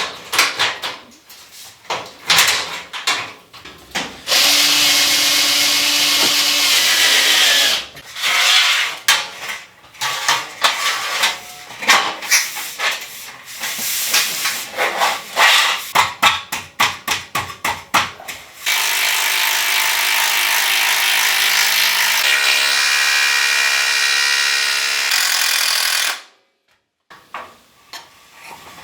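Handheld power tool, such as a drill or driver, run in many short on-off bursts and a few longer steady runs, then cut off sharply near the end.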